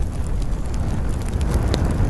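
Wood campfire crackling, with a sharp pop near the end, over a steady low rumble.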